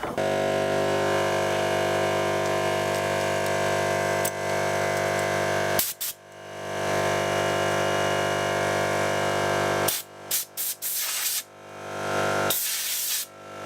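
Compressed air from a running air compressor blown at a clogged chainsaw air filter: a steady motor hum under a loud hiss of air. It breaks off briefly twice and builds back up each time. The air is not clearing the filter well.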